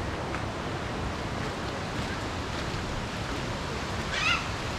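Steady rushing of the Torc Waterfall cascade and stream, an even roar of water. A brief high call cuts through it about four seconds in.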